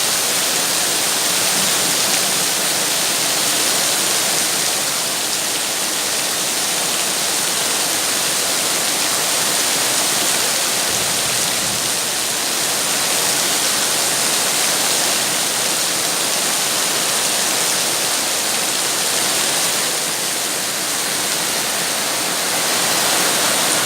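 Steady rain falling, a dense even hiss that swells and eases slightly without a break.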